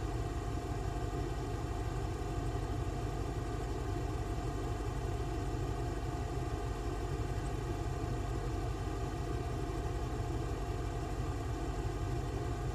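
A steady mechanical hum with several fixed tones, unchanging in level and pitch, like a motor running at constant speed.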